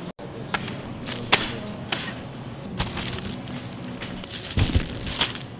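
Supermarket background hum with scattered knocks and clunks, the heaviest a double thud about four and a half seconds in, typical of groceries and a cart being handled.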